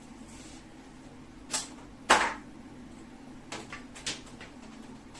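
A few sharp knocks and clicks from objects being handled, the loudest about two seconds in and a cluster of lighter clicks near the end, over a faint steady low hum.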